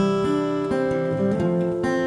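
Music: acoustic guitar strumming chords, without singing.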